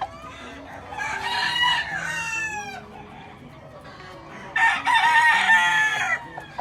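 Gamefowl rooster crowing twice, each crow a loud pitched call lasting under two seconds, the first trailing off in a falling note.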